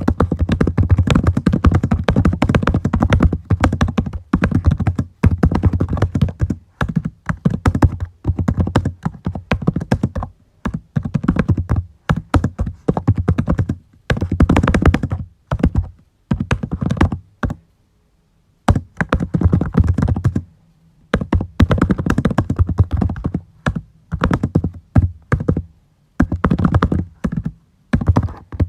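Typing on a computer keyboard: quick runs of keystrokes in bursts, broken by short pauses, the longest about a second long a little past halfway.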